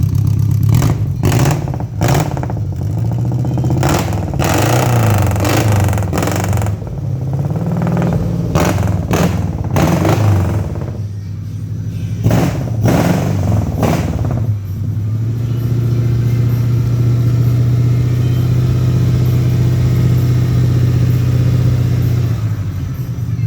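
Mitsubishi Colt T120SS pickup engine breathing through an aftermarket AJN muffler, revved over and over with quick throttle blips for about the first fifteen seconds. It is then held at a steady raised speed before dropping back just before the end.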